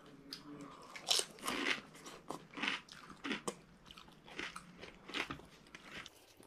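Crunching and chewing of pani puri: crisp, hollow fried semolina puri shells bitten and chewed, in many short, irregular crunches.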